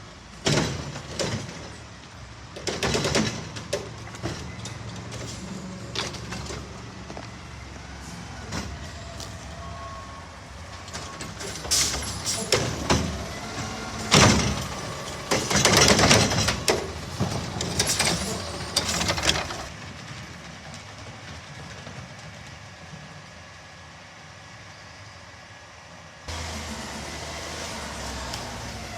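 Autocar garbage truck with a Heil body running, with repeated loud bangs and clatters as trash cans are slammed against the hopper to empty them.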